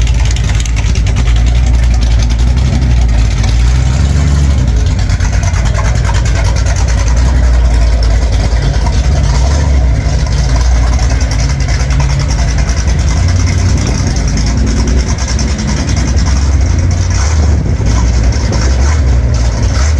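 Car engine idling loudly and steadily, with voices in the background.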